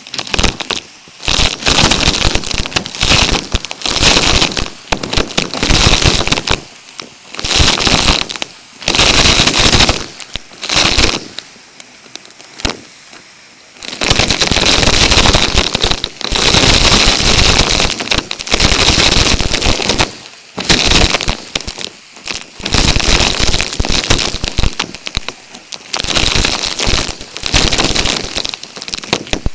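Numatic canister vacuum cleaner sucking up loose debris: a loud crackling rattle through the hose in repeated bursts of a second or two, dropping briefly between passes.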